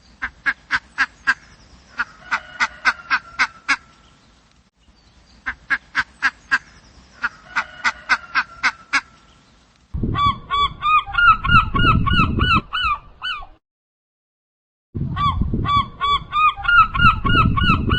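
Animal calls, most likely birds. First comes a run of rapid, sharp clicking calls, repeated once. Then come two bursts of fast, repeated honking calls that rise and fall in pitch, with short silences between the runs.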